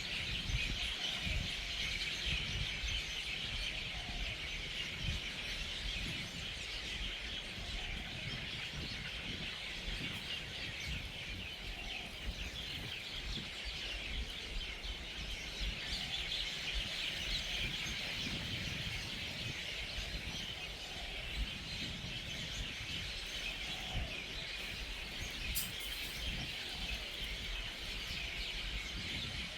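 A large communal roost of hundreds of birds chirping and chattering at once, a dense unbroken chorus of high calls as they settle for the night, over a low uneven rumble.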